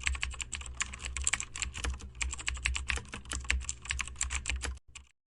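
Rapid typing on a keyboard: fast, uneven key clicks, about ten a second, over a low steady hum. The clicks stop shortly before the end.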